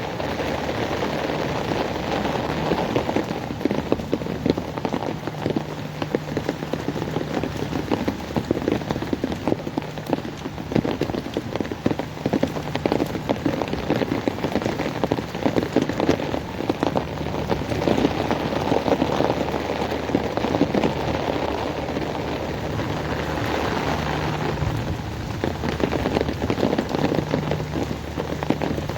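Heavy rain falling steadily, dense drops striking hard surfaces, with a faint low hum underneath at times.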